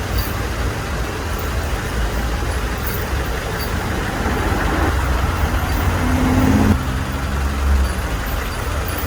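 Heavy road traffic, with a large vehicle's engine running slowly in a deep steady rumble over road noise; a brief pitched tone sounds about six seconds in.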